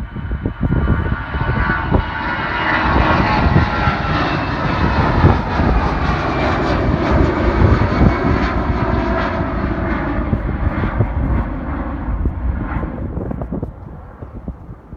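Airliner's engines running as the plane passes by, a loud roar with a whine of several tones sliding slightly down in pitch. The sound drops away about a second before the end.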